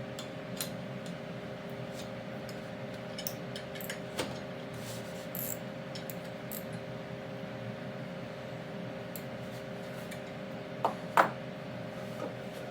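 Scattered light metallic clicks and clinks from hand tools working on the differential bolts, with two sharper clinks near the end, over a steady hum.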